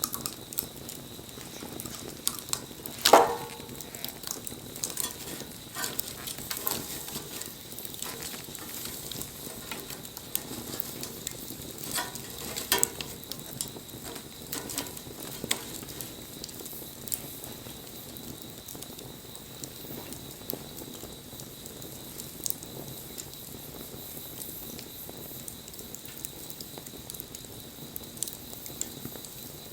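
Wood fire crackling and popping steadily, with a louder pop about three seconds in.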